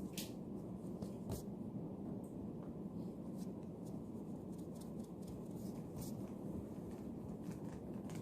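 Writing on paper: short scratchy strokes at irregular intervals, over a steady low room hum.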